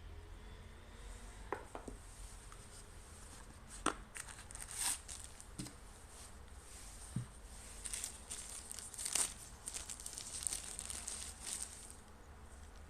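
Packaging being unwrapped and handled: crinkling, rustling plastic or paper with several sharp clicks and taps, busiest in the middle and second half.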